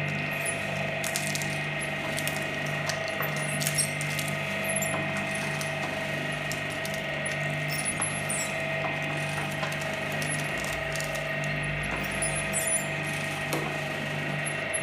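Shredder machine running with a steady hum, with scattered sharp clicks and cracks.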